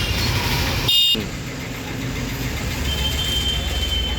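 Road traffic running steadily, with a short, loud, high-pitched sound about a second in and a thin steady high tone near the end.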